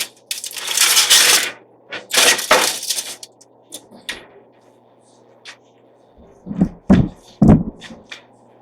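A metal roasting tray being pushed into an oven and the oven handled: two long scraping rushes, a few light metallic clinks, then three dull thumps near the end.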